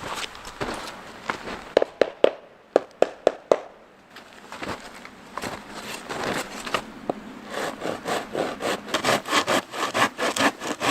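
A quick run of about seven sharp wooden knocks about two seconds in. Near the end a hand saw starts cutting through a log with quick, even back-and-forth strokes.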